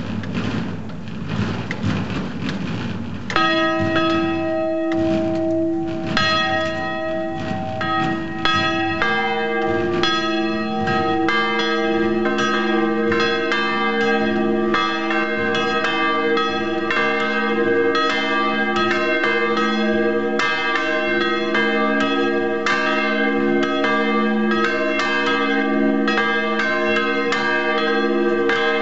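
Three motor-driven swinging church bells starting to peal. One bell begins striking about three seconds in, others join, and from about nine seconds all three ring together in irregular, overlapping strikes.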